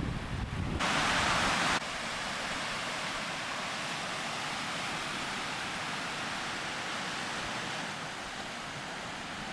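Steady rushing noise of wind and water, with a louder stretch of about a second near the start that begins and ends abruptly.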